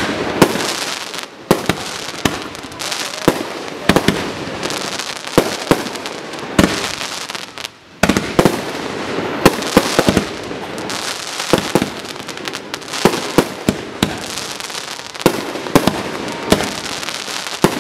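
Aerial fireworks display: a rapid barrage of shell bursts, sharp booms over continuous crackling, with a brief lull about eight seconds in before the bursts resume.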